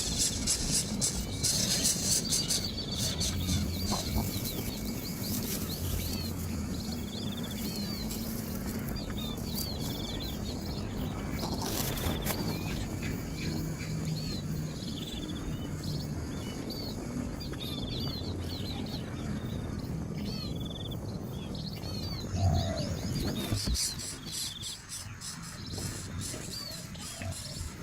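A small bird chirping repeatedly: many short high chirps, one every second or so, over a low rumbling background noise.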